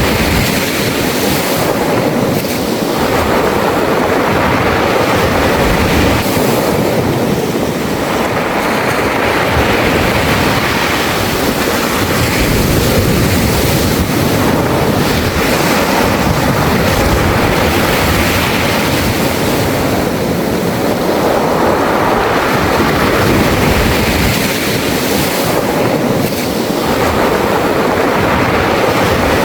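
Sea waves washing up a beach of smooth round pebbles, the surf rising and falling every few seconds with the hissing rattle of pebbles rolling in the wash.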